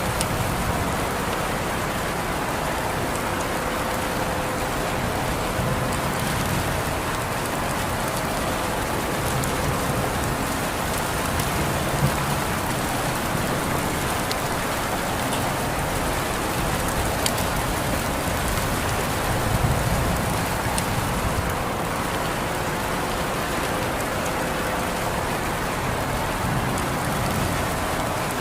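Steady rain falling on surfaces, an even hiss with a few louder single drops ticking now and then.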